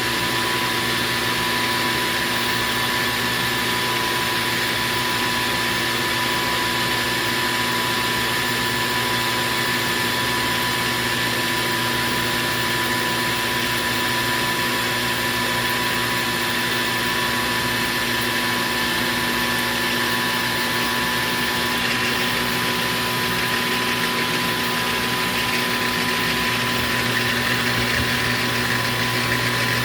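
Metal lathe running steadily through a turning pass on aluminium bar stock, a constant motor hum with a steady whine.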